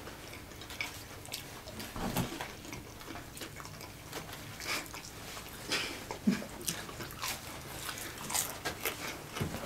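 People chewing chicken nuggets close to the microphone, with scattered short wet mouth clicks and smacks.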